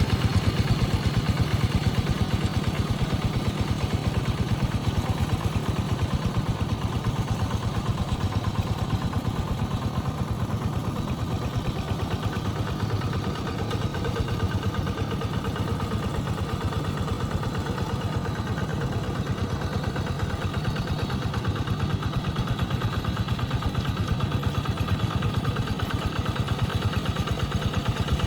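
Tractor engine running steadily with a rapid, even beat and a clattering edge, holding roughly constant throughout.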